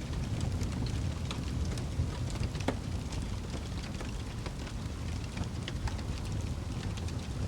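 Wood fire burning in a fireplace: a steady low rumble of the flames with irregular crackles and pops, one sharper snap about two-thirds of a second before the middle.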